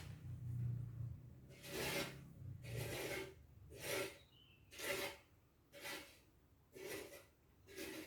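A sleeping cat breathing close to the microphone: soft, raspy breaths, about one a second.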